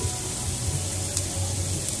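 Orange seblak chili spice paste frying in a small wok, a steady sizzling hiss with a low hum underneath and faint background music.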